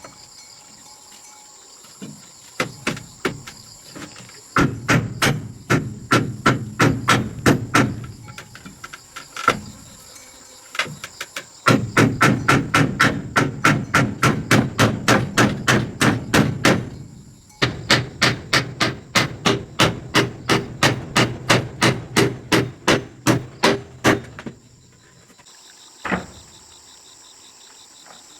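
Repeated hammer blows in several quick runs of about four strikes a second, stopping near the end with one last knock. Insects chirr steadily in the background.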